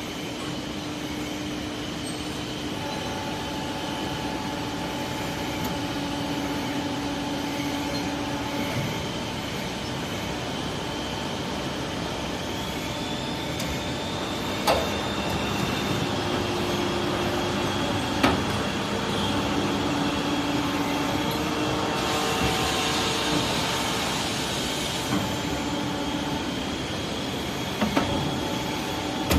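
Garage door track rail bending machine running: a steady mechanical hum with several held tones that shift and change over time, broken by a few sharp knocks.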